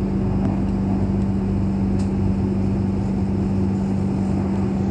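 Cabin noise of an Airport Rail Link electric train running at speed: a steady hum over a low rolling rumble, with one faint click about two seconds in.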